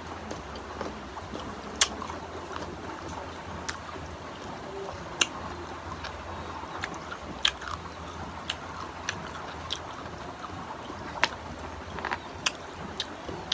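Someone chewing crunchy unripe green mango: sharp, irregular crisp clicks and crunches over a low steady hum.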